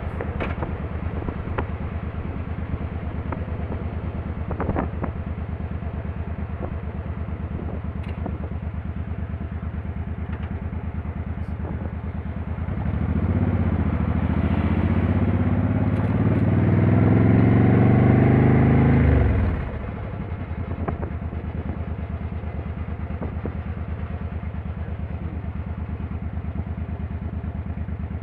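Motorcycle engine running steadily. About halfway through it is revved: the pitch rises for several seconds, then drops suddenly back to the steady run.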